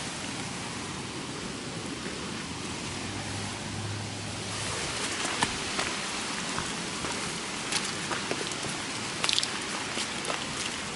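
Typhoon rain falling steadily in a continuous hiss, with scattered sharp drop-like taps from about halfway on.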